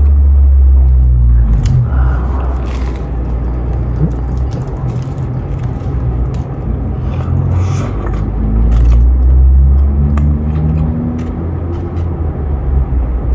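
Chewing and mouth sounds of someone eating a sandwich, with scattered small clicks, over a loud steady low rumble.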